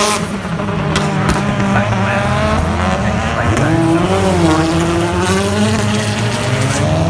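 Several BTCC touring cars with 2.0-litre turbocharged four-cylinder engines running hard past the track, their overlapping engine notes climbing and dropping in pitch through gear changes.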